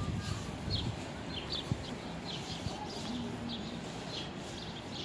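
Small birds chirping in many short, quick calls, over a steady low background rumble.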